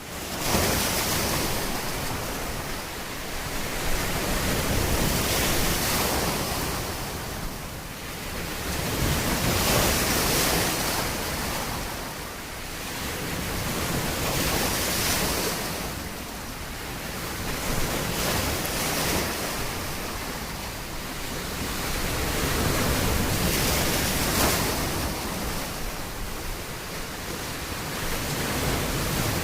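Ocean waves breaking on a beach, the surf swelling and easing every four to five seconds.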